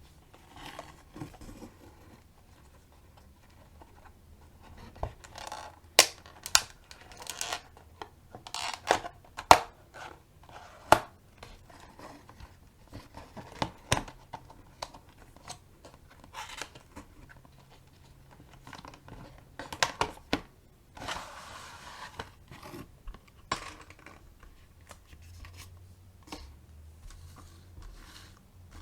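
Product packaging being handled and opened: tearing, rustling and crinkling, broken by sharp clicks and snaps, the loudest about six, nine and a half and eleven seconds in.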